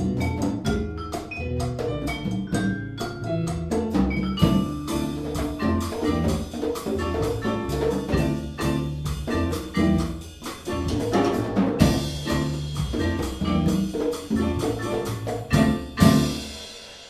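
Live Latin jazz band in a cha-cha groove, with vibraphone, piano, string bass and hand percussion, playing the closing bars of a tune. A cymbal wash comes in about two-thirds of the way through, and the band ends on a final loud hit just before the end.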